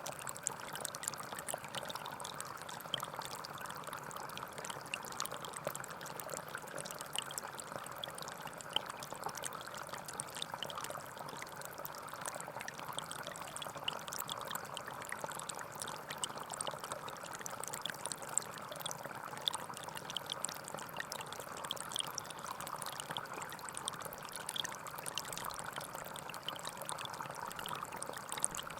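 A small forest stream flowing and trickling steadily, with many small splashes.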